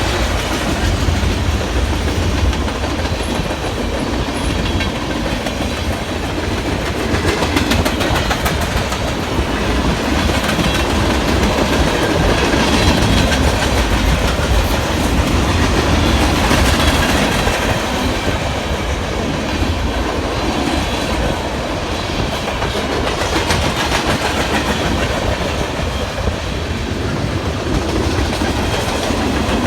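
Freight train cars rolling past, a steady noise of steel wheels running on the rails.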